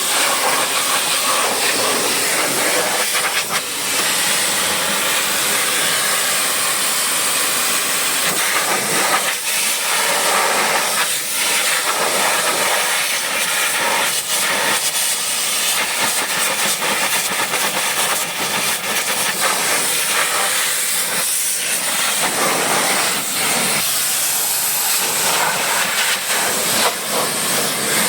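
High-pressure washer jet spraying water onto a vehicle: a loud, steady hiss with a few brief dips.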